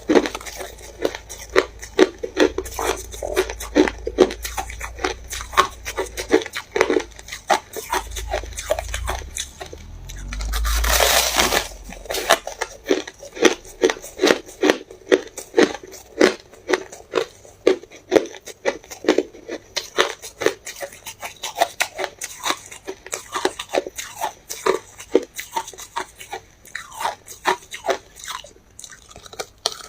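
Ice being bitten and chewed: a steady run of sharp crunches, a few a second, with one louder, longer crushing burst about eleven seconds in.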